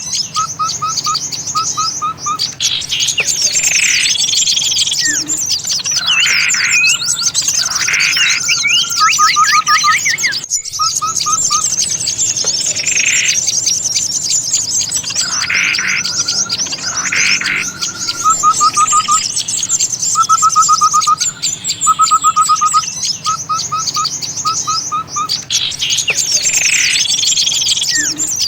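Bird-lure recording of many small birds calling at once: dense high twittering and chirps, short rapid trills repeated again and again, and clear swooping call notes. It plays as a continuous loop with a brief break about ten seconds in.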